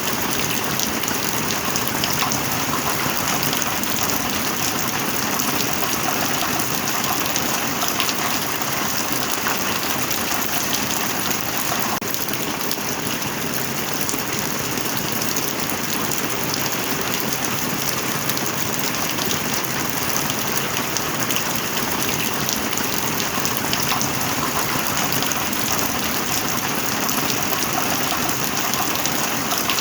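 Heavy rain falling steadily, a dense even hiss with many separate drop impacts ticking through it.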